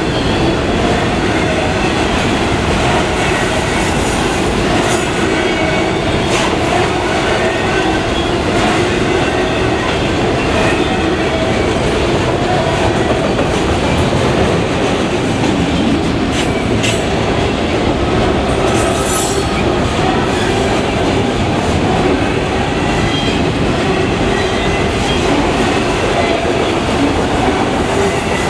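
Freight train cars rolling steadily past at close range: a continuous loud rumble of steel wheels on rail, with faint steady tones from the wheels and a few sharp clanks along the way.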